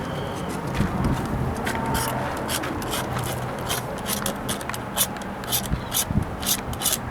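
Hand scraping of mineral buildup off a Thetford RV toilet part: a run of short scraping strokes that comes faster and thicker in the second half.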